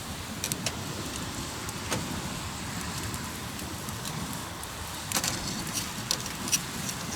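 Wood campfire burning in a fire-pit stand, crackling with scattered sharp pops: a couple about half a second in, one near two seconds, and a cluster between five and six and a half seconds. Beneath it a steady low rush of waves breaking on the shore.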